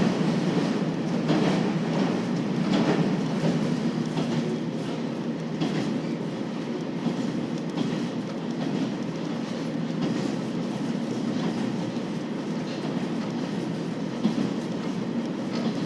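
KiHa 40 series diesel railcar running along the line: a steady rumble of the train in motion, with wheels clacking over rail joints, most often in the first few seconds.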